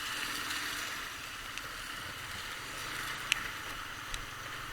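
Steady rushing wind and road noise on a motorcycle rider's helmet microphone while riding, with a few sharp ticks, the clearest about three seconds in.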